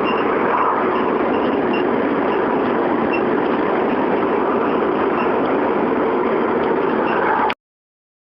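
Steady road and engine noise of a van on the move, running evenly and then cutting off suddenly near the end.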